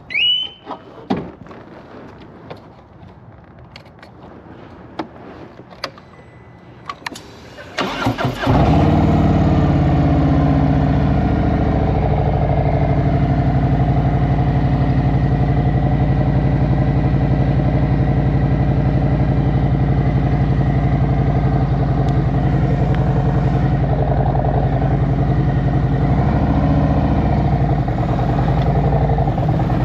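A 2023 Harley-Davidson Road Glide Special's V-twin is cranked and fires about eight seconds in, on a cold start in near-freezing air, then settles into a steady, loud idle. Before that come a few short clicks.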